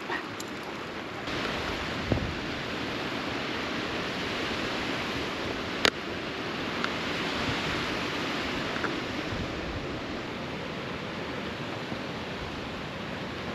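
Fast-flowing stream water rushing steadily, the rush growing louder about a second in. A single sharp click near the middle.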